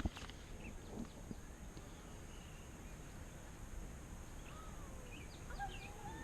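Quiet riverside ambience with a sharp click at the start, then birds calling: several short whistled calls gliding up and down in pitch from about two-thirds of the way through.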